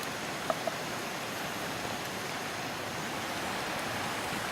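Steady rush of a river flowing, with two faint clicks about half a second in.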